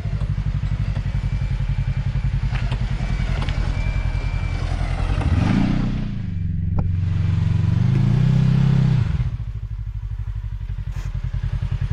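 Side-by-side UTV engine idling on a rock trail, revved briefly about halfway through, then held higher for a second or so before dropping back to idle. A few sharp knocks cut through the engine.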